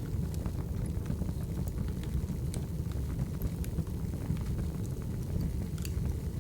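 Wood fire burning: a steady low rumble with scattered sharp crackles and pops from the burning logs.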